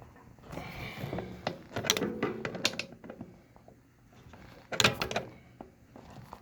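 Clicks and clatter of small metal hand tools being handled, in two spells: from about half a second to three seconds in, and again briefly near five seconds.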